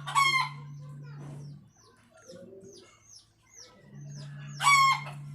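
Small birds chirping, with two loud short bird calls, one right at the start and one near the end. Under them a steady low hum cuts out after about a second and a half and comes back about four seconds in.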